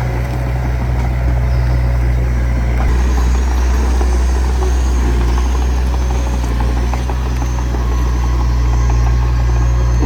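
Heavy diesel engine of earthmoving equipment running steadily at a low, even pitch. Faint light clicking sounds over it, and a faint high whine joins about three seconds in.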